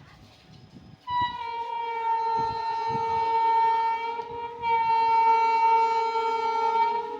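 Indian Railways locomotive horn sounding a long two-note blast that starts about a second in, breaks briefly near the middle and sounds again.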